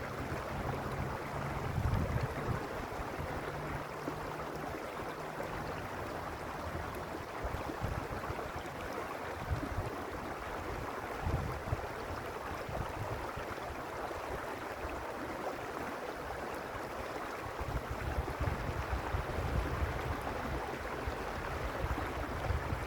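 Mountain creek water flowing and rushing steadily. A low, uneven rumble of wind on the microphone rises in the first few seconds and again near the end.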